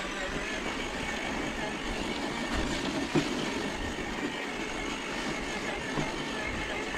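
Electric RC off-road truck running, its motor and gears whining steadily as it pushes through snow and brush, with one sharp knock about three seconds in.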